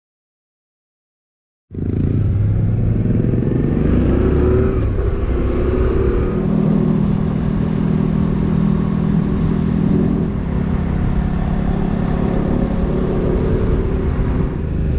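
After about a second and a half of silence, a motorcycle engine running under way, its pitch rising between about four and six seconds in and then holding steady.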